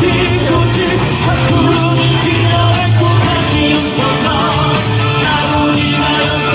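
A busker singing live to loud amplified music with a strong, sustained bass line.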